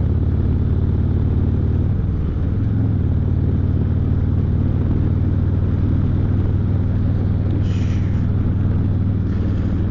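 Harley-Davidson Street Glide's V-twin engine running steadily under way, with a brief dip and change in pitch about two seconds in.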